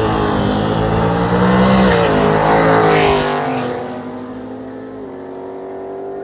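Vehicle engines accelerating hard in a drag race, the engine note climbing in pitch and shifting, with a rush as they pass about three seconds in, then fading as they pull away.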